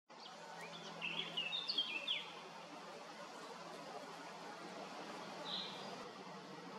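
A songbird singing a quick, rapid phrase of chirps about a second in, with one short call later, over a steady outdoor background hiss.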